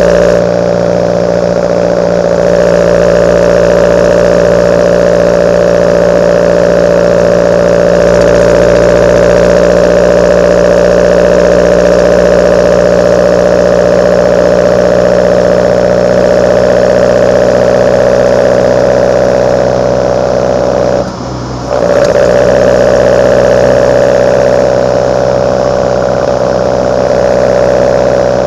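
Kadett GS 16v engine's intake through its side-draft Solex C40 ADDHE carburettors, running at a steady engine speed with an unchanging pitch. About two-thirds of the way through the sound dips briefly, then comes straight back at the same pitch.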